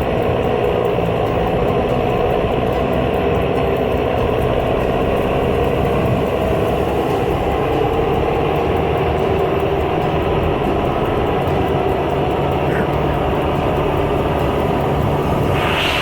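John Deere 6330 tractor engine running steadily and hard under load as the tractor works through deep mud.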